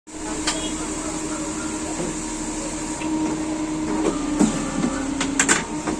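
Automatic paper cutting machine running with a steady hum and a high whine, broken by a few sharp clicks, the loudest pair a little before the end.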